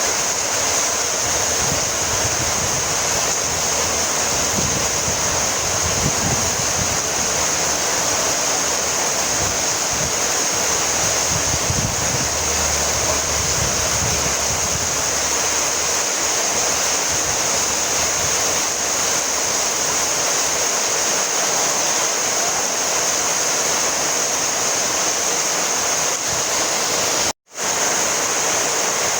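Heavy rain falling steadily, a dense even hiss with some low rumbling in the first half. The sound cuts out abruptly for a fraction of a second near the end.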